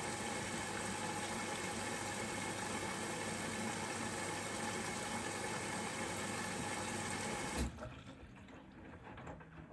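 Bosch Serie 4 WAK20260TR washing machine with water rushing through it: a steady hiss with a faint hum, as when the drum fills or pumps water. About seven and a half seconds in, it stops abruptly with a thump, leaving only a faint background.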